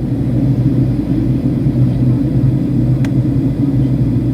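Boeing 757-200 cabin noise during descent: a steady, loud low rumble of engine and airflow, with a faint click about three seconds in.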